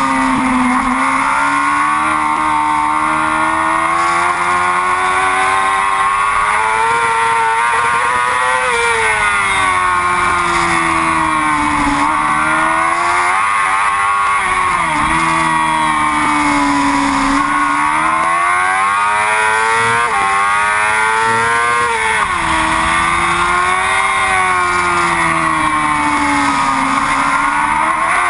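Yamaha R6 race bike's inline-four engine running hard at high revs, its pitch climbing under acceleration and falling off into corners, with quick drops in pitch at gear changes, over steady wind hiss.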